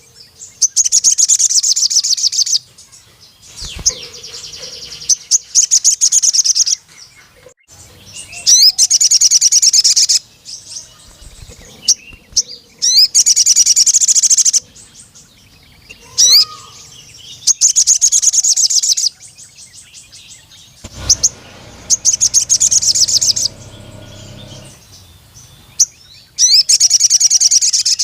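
Crimson sunbird (sogon) singing: about seven loud bursts of rapid, high-pitched trilled song, each lasting a second and a half to two seconds, repeated every few seconds, with single sharp chirps in between.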